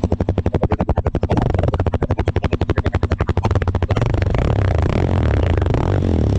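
Suzuki DR-Z400S single-cylinder four-stroke engine, cold and on its stock exhaust, idling with an even beat and then revved. The beat quickens and grows louder about a second in, and again about four seconds in, until it blurs into a steady drone.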